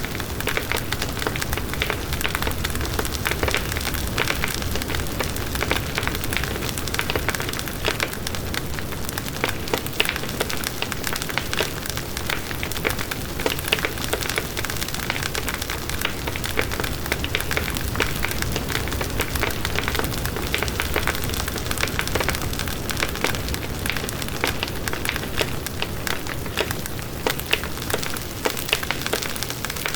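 Campfire burning steadily, with a constant dense crackle of fine pops and snaps over a low rumble.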